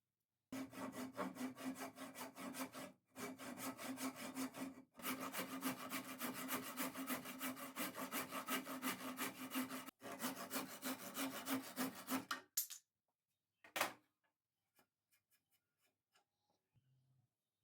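Hand saw cutting pine with rapid, even strokes, in three runs with short pauses between them, stopping about twelve seconds in. A single sharp knock follows about a second later.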